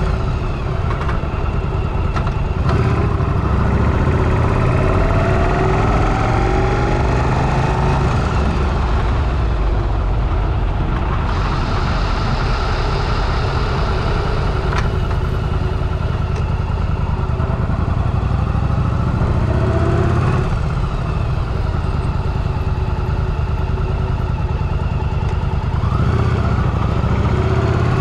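Motorcycle engine running while riding, its pitch climbing as it accelerates a few seconds in and again near the end.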